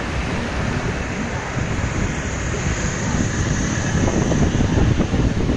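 Wind blowing across the microphone: a steady rushing noise with a gusty low rumble, a little louder from about three seconds in.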